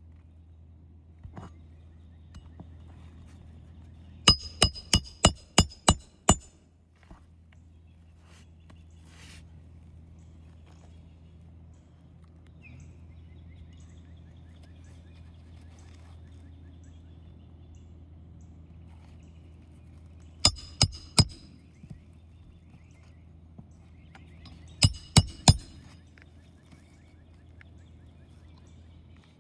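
Nails being driven into asphalt roof shingles: a quick run of six sharp, ringing metal strikes, then later two short runs of three. A steady low hum sits underneath.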